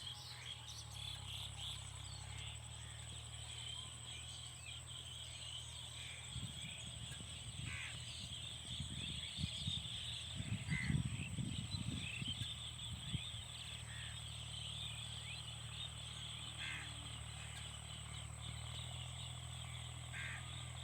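Outdoor nature ambience of insects chirping steadily, with a steady high-pitched buzz and a few short bird calls. A stretch of irregular low rumbling runs from about six to thirteen seconds in.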